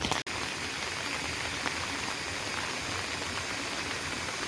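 Steady, even water noise with no breaks, starting abruptly after a brief cut in the sound just after the start.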